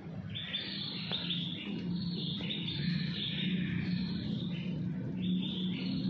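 Birds chirping repeatedly over a steady low hum.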